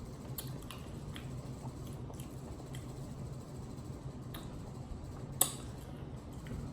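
Close-miked chewing of a sauce-coated boiled egg: soft wet smacks and mouth clicks, with one sharper click about five seconds in.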